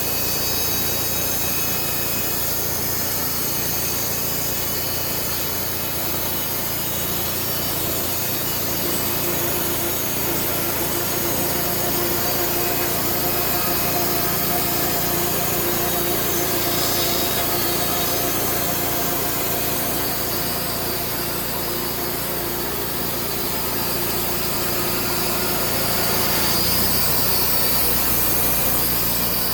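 Sawmill blade cutting through a log: a steady, unbroken sawing noise with the mill's engine running under load.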